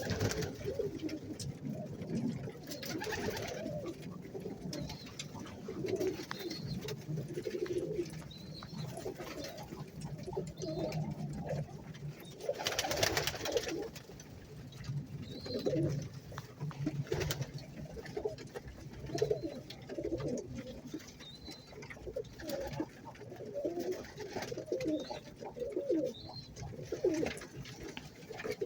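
Domestic pigeons in a loft cooing over and over, several birds overlapping, with faint high chirps. A few short rustling bursts cut in, the loudest about halfway through.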